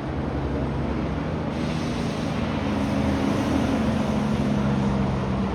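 A heavy truck's diesel engine running as it drives past, with a rush of tyre and road noise that swells about a second and a half in; the engine note slides a little lower as it goes by.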